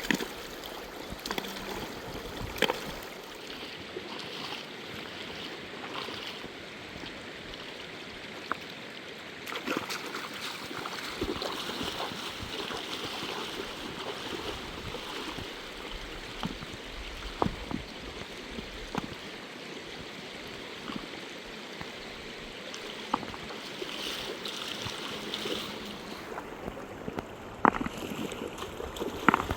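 River water rushing steadily over stones, with a few short, sharp knocks or splashes standing out at intervals.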